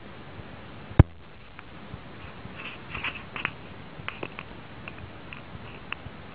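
A single sharp knock about a second in, then scattered faint clicks and taps over a low steady hiss.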